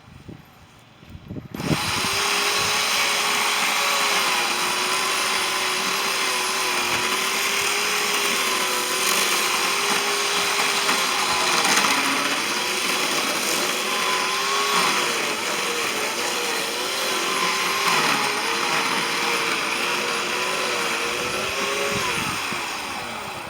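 Power saw running and cutting through a peach tree, starting about a second and a half in. Its motor whine dips in pitch several times as it bogs down in the wood, then winds down near the end.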